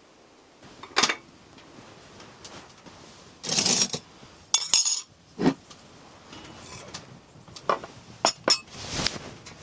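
Camp cookware and utensils being handled: a run of separate sharp clinks and knocks, with a few short rustling scrapes between them.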